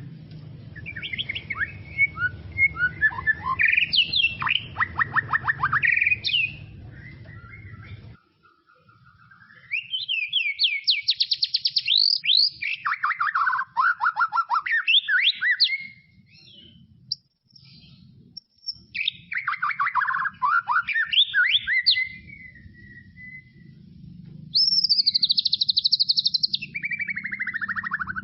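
White-rumped shama singing in four bursts of fast trills and whistled notes that sweep up and down, with short pauses between phrases. A low background hum under the first phrase cuts off about eight seconds in.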